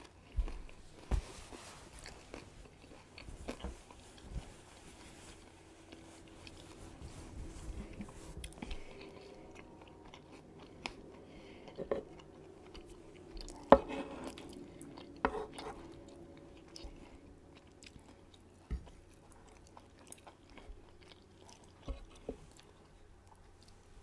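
Close-miked chewing of a guacamole bacon burger slider: moist mouth sounds and crunches from the candied bacon, with scattered short clicks and smacks.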